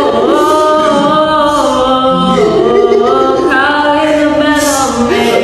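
A person singing unaccompanied, holding long drawn-out notes that slide up and down in pitch.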